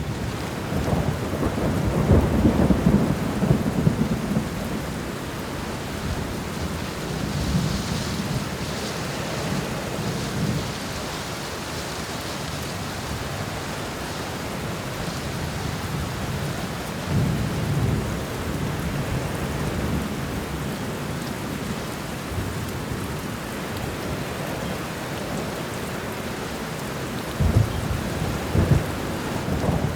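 Steady rain with rolling thunder rumbling several times, loudest in the first few seconds and again near the end.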